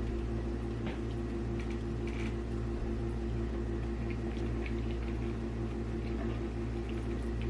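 A steady low mechanical hum with an evenly pulsing tone, like a running fan or appliance motor, under faint scattered small clicks and smacks of eating.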